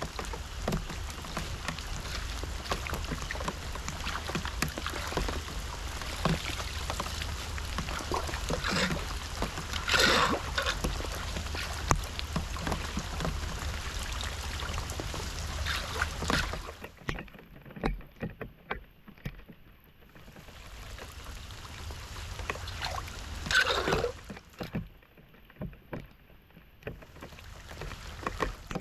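Floodwater splashing and sloshing in irregular strokes over a steady rush of water. The rush stops about two-thirds of the way through, leaving scattered splashes.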